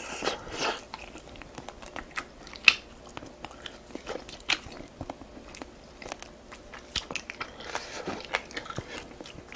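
Close-up eating sounds: a person chewing and crunching food, with many sharp irregular clicks from the mouth.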